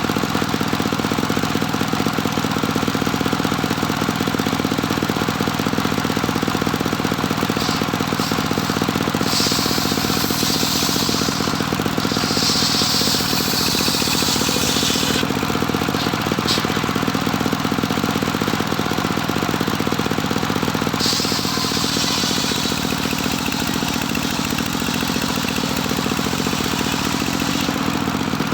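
Engine of a homemade circular sawmill running steadily. Twice, from about nine seconds and about twenty-one seconds in, a higher hissing noise rises over it for several seconds, typical of the blade cutting through a board.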